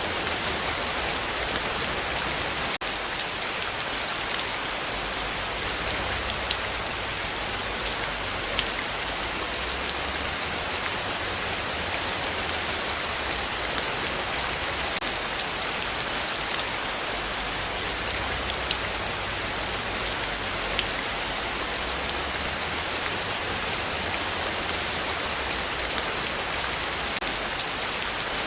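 Heavy rain falling steadily: a dense, even hiss with scattered sharper drop ticks and a momentary dropout about three seconds in.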